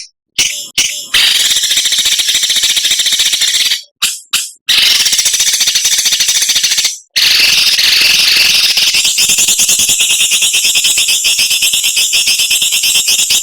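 Songbird giving a harsh, rasping, very rapid rattling call ('besetan kasar'), high-pitched. It is edited into long looped stretches that cut off abruptly and restart several times.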